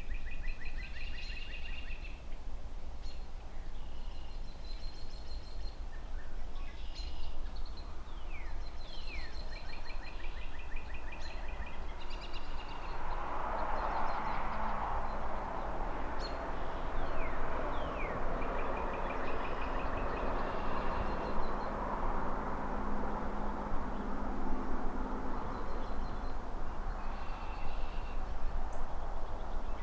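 Songbirds chirping and trilling in quick falling notes over a steady low hum of distant city traffic. From a little before halfway through, a broad rushing noise swells up and slowly fades.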